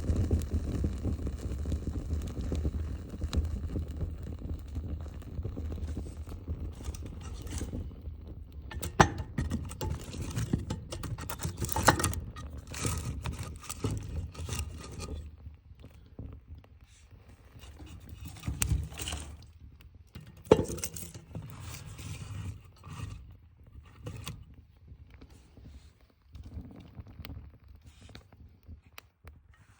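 Scraping, clinking and sharp knocks of wood and metal being handled at a wood stove as it is loaded and lit, with a steady low rumble in the first few seconds.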